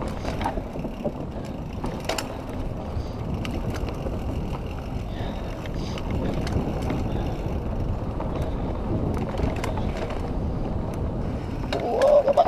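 Mountain bike riding over a rocky dirt trail: a steady rumble of tyres and wind on the microphone, with scattered clicks and rattles from the bike. A short vocal sound from the rider near the end.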